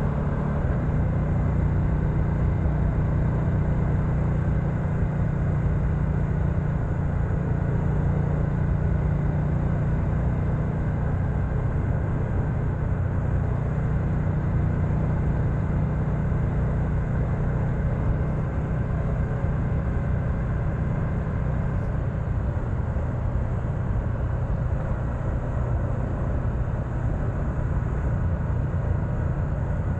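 BMW F900XR's 895 cc parallel-twin engine running at a steady cruise, its note holding an even pitch, under a steady rush of wind noise.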